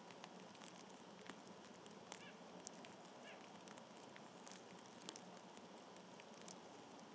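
Faint outdoor background with scattered small ticks and clicks and two short, faint bird chirps, about two and three seconds in.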